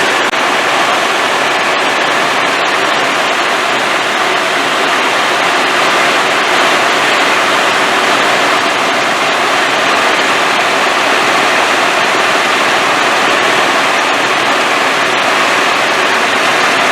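Helicopter in flight, heard from on board: a steady, loud rushing noise of engine, rotor and airflow that stays even throughout.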